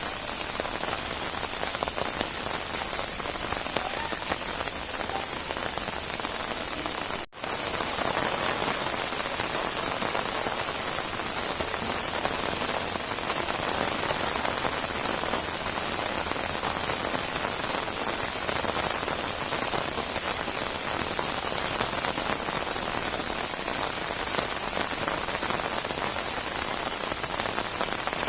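Steady heavy rain falling on surfaces, a dense, even hiss of countless drops. It cuts out for an instant about seven seconds in.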